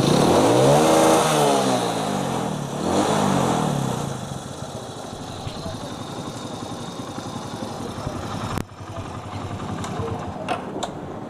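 Hero iSmart 110's single-cylinder four-stroke engine revved twice, rising and falling in pitch, then running steadily at a lower level. The timing chain area has been freshly refitted and oiled, and the mechanic says the earlier heavy timing-chain noise is gone.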